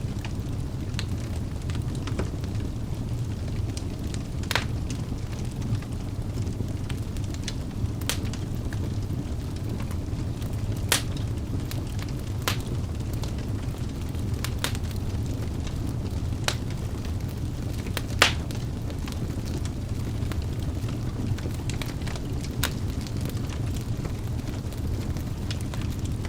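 Wood fire burning in a fireplace: a steady low rumble of flames with sharp, irregular crackles and pops from the logs, the loudest about 4, 11 and 18 seconds in.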